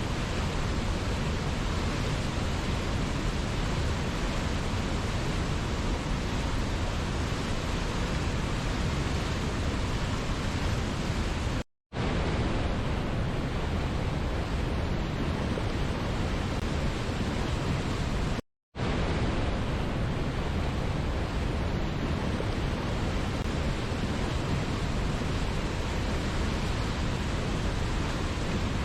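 Steady rushing water of a waterfall, an even, unbroken roar. It cuts out to silence for a split second twice, about 12 seconds in and again about 18 seconds in.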